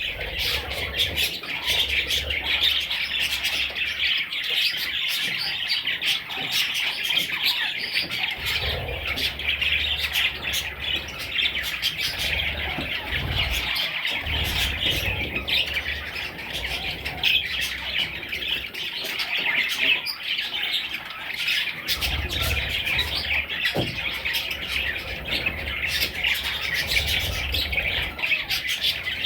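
A flock of budgerigars chattering continuously, a dense mix of warbles, chirps and squawks.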